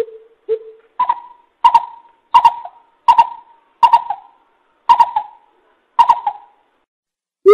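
Greater coucal hooting: two low hoots, then a series of seven louder, higher hoots, each sharp at the start and trailing off, spaced a little further apart as the series goes on.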